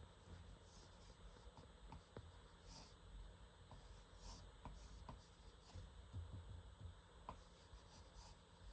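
Faint pen strokes scratching on paper in short sketching bursts, with a few small taps of the pen.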